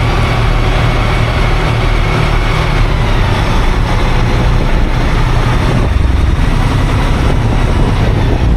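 Semi truck running down the road: a steady, loud low drone of the diesel engine together with road noise.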